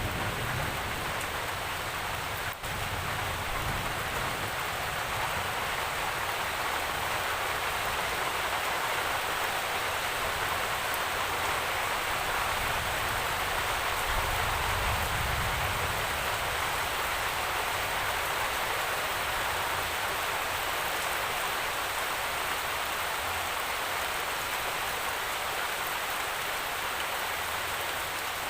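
Steady rain falling, an even hiss of many drops, broken by a momentary dropout about two and a half seconds in, with a faint low rumble around the middle.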